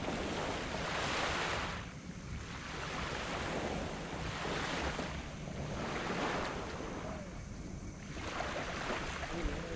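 Small tropical waves breaking and washing up on a black sand beach, one surge after another about every one and a half seconds over a steady low rumble of surf.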